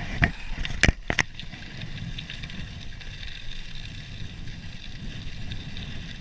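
Wind rumbling on the microphone and bicycle tyres rolling on a gravel trail while riding, with a couple of sharp clicks about a second in.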